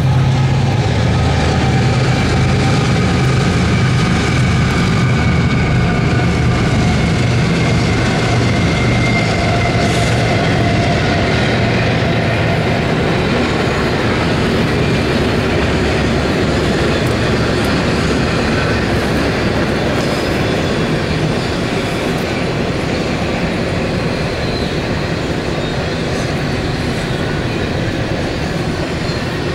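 A five-locomotive CSX double-stack container train passing. The diesel locomotives' engines hum heavily for about the first dozen seconds, then the stack cars roll by with a steady rush of wheel-on-rail noise that slowly fades.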